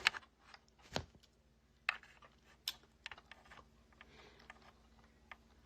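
Faint, irregular clicks and taps of a computer's keys and mouse being pressed, about a dozen over a few seconds, the loudest about a second in.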